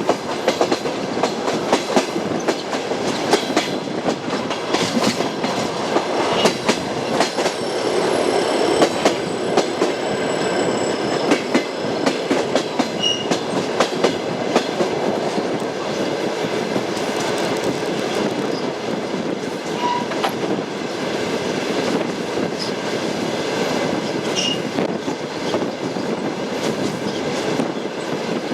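Train wheels clattering over rail joints, with a steady rolling rumble; the clicks come thickly in the first half and thin out to a smoother rumble in the second.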